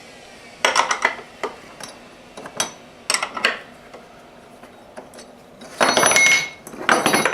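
Metal hold-down clamps being taken off a CNC router bed: bursts of clinking and clattering as clamp parts knock and are set down, some with a brief metallic ring, in four separate bouts.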